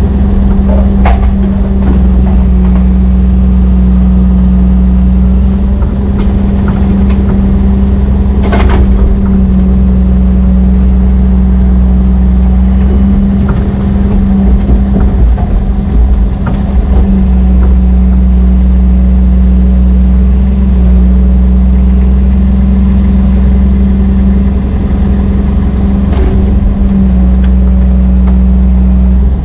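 Heavy diesel engine of a Brøyt X21 excavator running loud and steady at a constant speed, with two sharp knocks: one about a second in and one near nine seconds.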